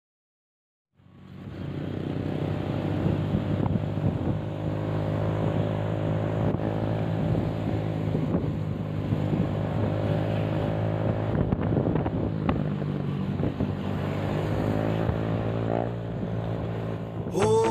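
A vehicle engine running steadily, starting up out of silence about a second in. Music cuts in near the end.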